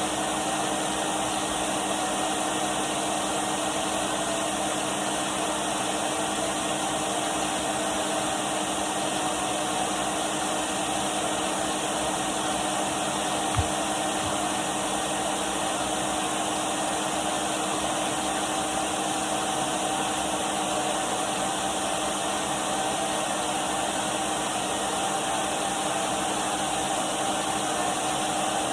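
Numatic Henry canister vacuum cleaner running steadily: an even rush of air with a constant motor hum and whine. One brief low knock about halfway through.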